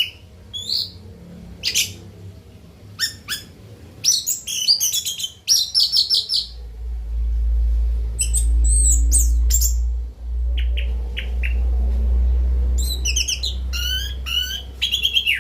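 Orange-headed thrush singing in short phrases of rapid, sliding whistled notes, with gaps between phrases. From about six seconds in, a steady low rumble runs underneath the song.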